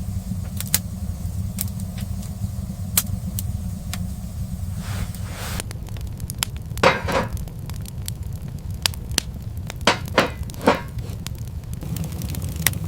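A steady low rumble with scattered sharp crackles and clicks, and a few louder knocks about seven and ten seconds in.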